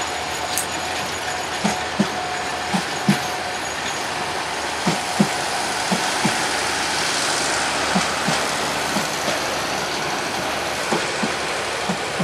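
Meter-gauge passenger coaches rolling past with a steady rumble, the wheels clacking over rail joints in pairs as each bogie crosses, a pair every second or two.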